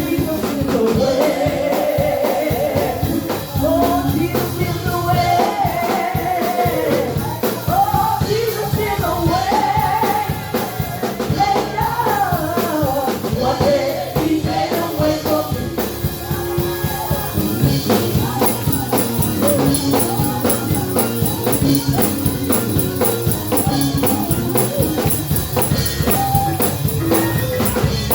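Live gospel praise music: voices singing a melody over a steady beat of drums and tambourine.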